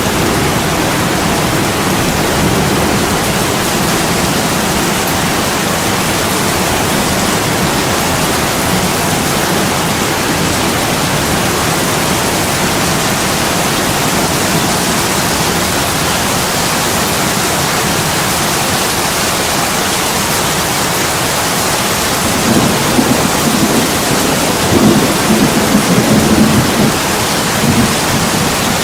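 Heavy rain pouring steadily on window glass. Late on, a low rolling rumble of thunder swells in for several seconds before dying back.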